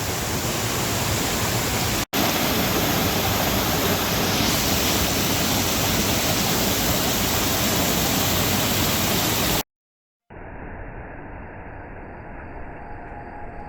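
Waterfall pouring into a pool, a loud steady rushing roar, broken once by a split-second cut about two seconds in. It stops abruptly late on, and after a brief silence a much quieter, muffled background with faint steady tones follows.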